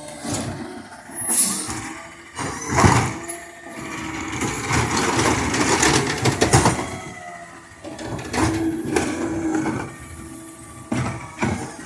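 Autocar McNeilus ZR garbage truck at work: engine and hydraulics running, with a run of clatters and bangs and short hisses.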